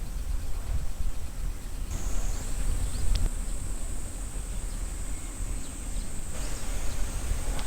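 A high, thin, steady insect drone from the summer forest that comes in about two seconds in and drops away near six seconds. Under it runs a low, steady rumble on the microphone, with one small click about three seconds in.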